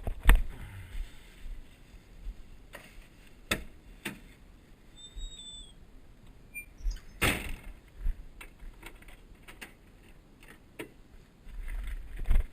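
Irregular sharp knocks and clunks, a second or more apart, over a faint low rumble, with a short high chirp about five seconds in.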